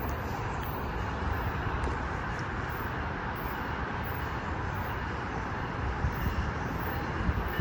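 Amtrak train led by a Siemens ACS-64 electric locomotive rolling through the station with a steady rumble.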